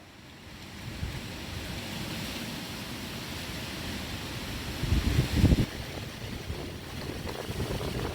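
Wind blowing steadily with a hiss that builds about a second in. It gusts against the microphone with low rumbling buffets about five seconds in and again near the end.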